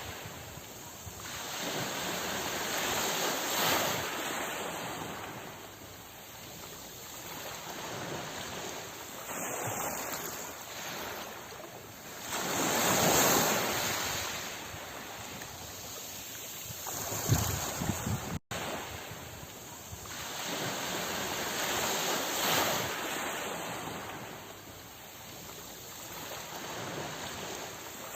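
Sea waves surging and breaking on a shore, a swell of surf rising and falling about every nine to ten seconds, with a momentary cut-out about two-thirds through.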